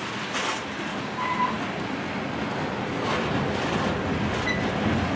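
Freight train of covered hopper cars rolling past, a steady rumble of wheels on rail. A short high-pitched wheel squeal comes about a second in, and a fainter one near the end.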